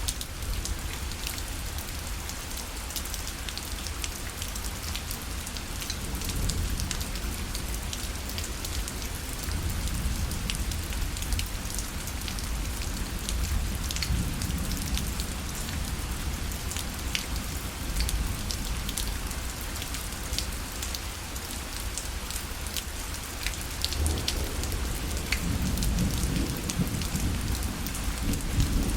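Steady rain falling on a parasol, with many individual drops ticking sharply on the canopy. A low rumble swells near the end.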